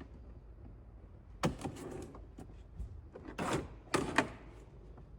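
Plastic push-in button clips clicking as their centres are flicked out, with the knocks and scrapes of a plastic trim panel being handled. A cluster of sharp clicks starts about a second and a half in, with louder rattling knocks around three and a half to four seconds in.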